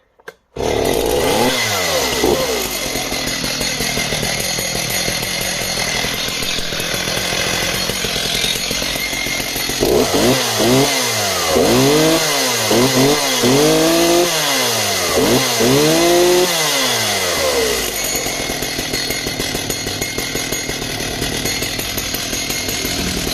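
Homelite 340 chainsaw's 54 cc two-stroke engine starting after the choke is taken off, its revs dropping back to a steady idle. About ten seconds in it is revved up and let back down about six times in quick succession, with no hesitation on the throttle, then settles back to idle.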